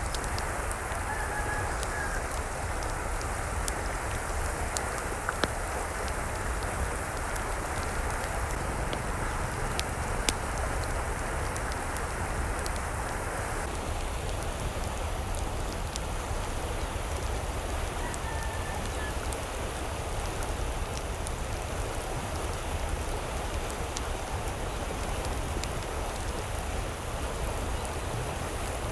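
Steady rain with scattered drops ticking sharply. A distant chicken calls briefly twice, once near the start and once past the middle.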